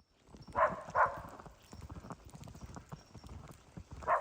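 Footsteps crunching in fresh snow: two sharp crunches close together about half a second in, and another near the end, over a constant low patter.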